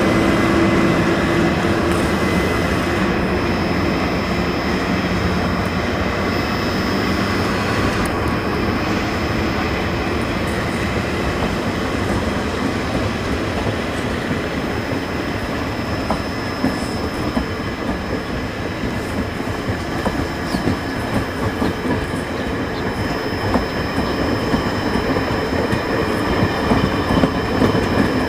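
A Taiwan Railway train running on the track, a steady rumble of wheels on rail with a thin high squeal above it. Sharp clicks come more often near the end.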